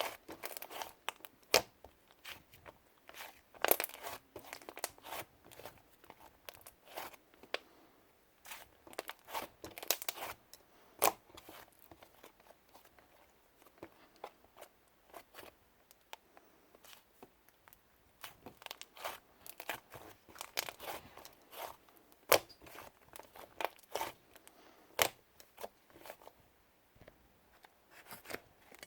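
Slime being worked by hand, giving sharp sticky clicks and crackly pops at irregular intervals, a few louder than the rest.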